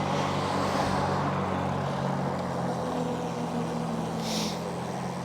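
A motor vehicle's engine running steadily as a low, even hum, with a short hiss about four seconds in.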